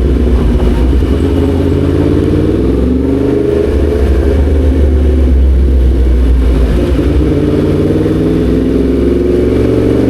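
Yamaha MT-10 SP's crossplane inline-four engine running under way, climbing in pitch twice as it accelerates, once about three seconds in and again near the end.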